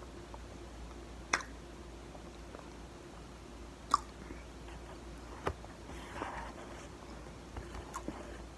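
Cornstarch being chewed close to the mouth: a few separate sharp crunches, the loudest about four seconds in, with softer squeaky chewing around six seconds and small clicks near the end.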